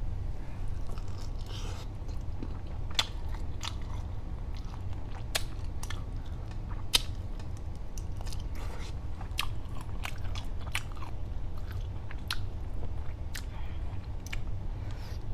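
Close-miked chewing of saucy jumbo shrimp: wet mouth clicks and small crunchy bites at an irregular pace, over a steady low hum.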